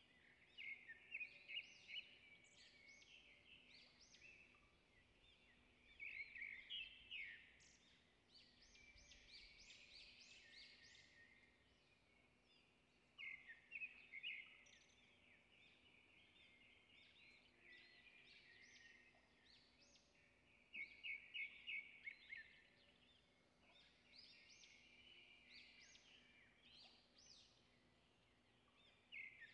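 Faint birdsong: bursts of rapid high chirps and trills every few seconds, over a faint steady hum.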